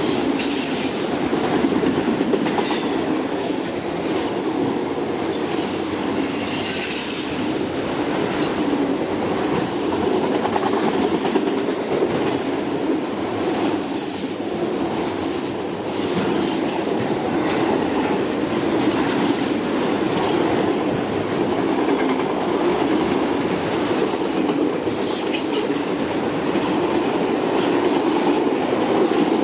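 Freight cars rolling steadily past on the track: a continuous rumble and clatter of wheels, with short high-pitched flange squeals breaking in now and then.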